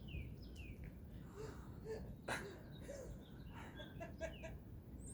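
Faint bird chirps, with one short sharp sound about two seconds in.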